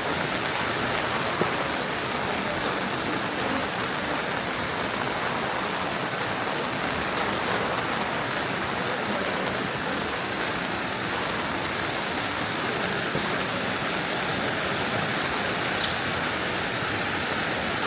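Steady rush of running water, an even hiss with no single splashes standing out.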